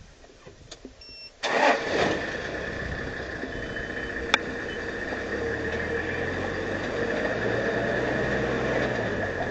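A vehicle engine starts with a sudden jump in loudness about a second and a half in, then keeps running steadily. There is one sharp click near the middle.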